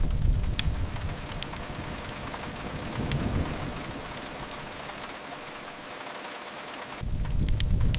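Rain falling steadily, with scattered sharp crackles from a fireplace fire. A low rumble swells at the start, again briefly about three seconds in, and once more near the end.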